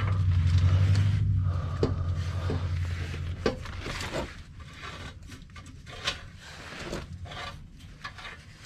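Metal exhaust parts clinking, knocking and rubbing as a titanium cat-back exhaust is fitted onto its front flange studs and the nuts started by hand; irregular sharp clicks and knocks. A low steady hum under the first part stops about three and a half seconds in.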